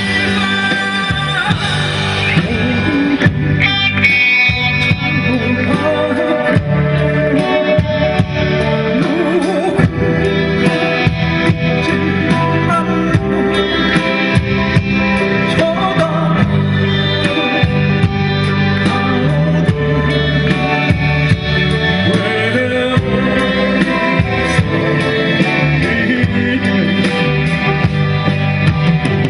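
A live rock band playing, with electric guitar and drums keeping a steady beat, and some singing.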